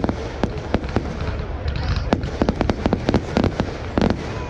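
Fireworks display: a rapid, irregular barrage of sharp bangs and cracks, several a second, over a steady low rumble.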